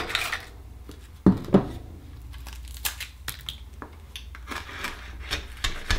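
Akoya oyster being opened: sharp cracks of the shell at the start and a pair about a second in, then scattered small clicks and crunches as it is worked open.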